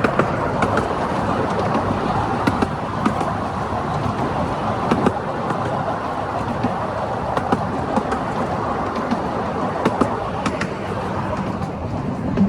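Ruislip Lido miniature railway train running along the track, heard from on board: a steady rumble with irregular sharp clicks and knocks from the wheels on the rails.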